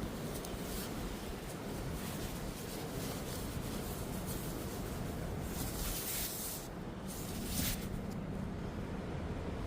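Steady rustling noise, with two brief louder rustles about six and seven and a half seconds in.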